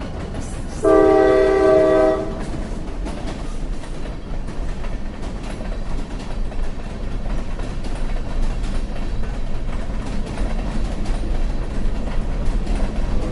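Train horn sounding one blast of about a second and a half, about a second in, over the steady running noise of a moving train.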